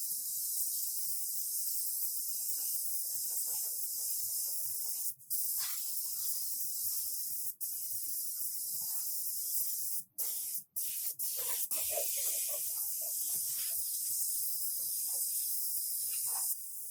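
Compressed air hissing steadily from an air tool in a body shop, cutting out briefly about six times in the middle as the trigger is let off and squeezed again.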